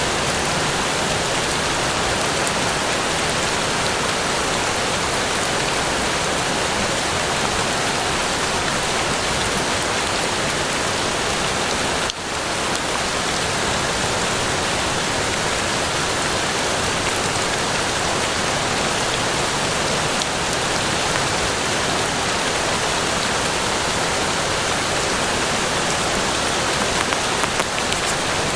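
Steady rain falling in an even, dense patter. It dips for a moment about twelve seconds in, and a few louder drops land near the end.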